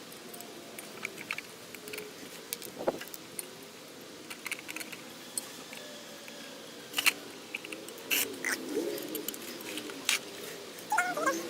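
Scattered metallic clicks and clinks of bench grinder parts and hand tools being handled during reassembly, with a few sharper knocks.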